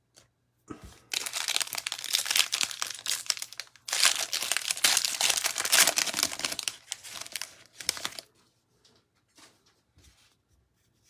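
A trading-card pack wrapper being torn open and crinkled, a dense crackling that starts about a second in, is loudest in the middle and dies down near the end.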